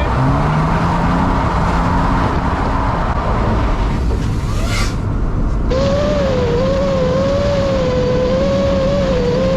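Car engines running and revving up and down. About six seconds in, the sound cuts to a steady, wavering whine.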